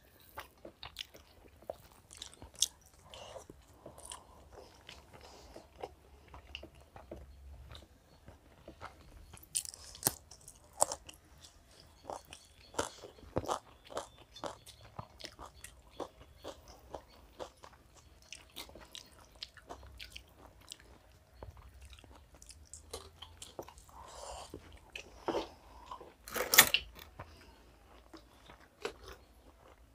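Close-miked eating sounds: people chewing chicken biryani eaten by hand, with many small scattered clicks and crunches of mouths and fingers on food. A louder short clatter comes near the end.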